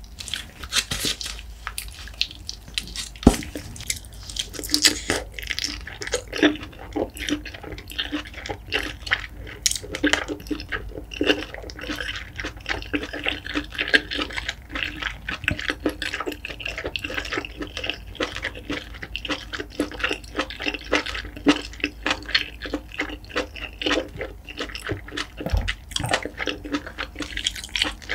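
Close-miked wet eating sounds: chewing and lip smacks as spicy steamed scallop is eaten, a dense run of short wet clicks.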